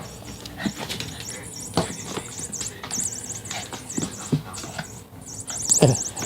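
A dog playing with a cat toy mouse: scattered knocks and patter, with a quick run of repeated high chirps in the middle and a louder thump near the end.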